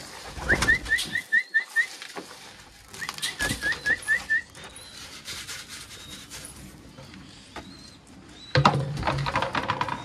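Aviary birds calling: two quick runs of about six short, high chirps in the first half, then fainter, higher short calls. A louder noisy burst comes near the end.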